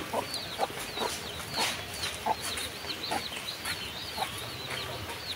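Birds calling: quick, hooked high chirps repeating two or three times a second, with shorter, lower calls mixed in about once a second.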